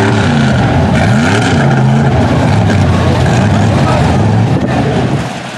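Mud truck engine revving hard, its pitch rising and falling repeatedly, then easing off about five seconds in.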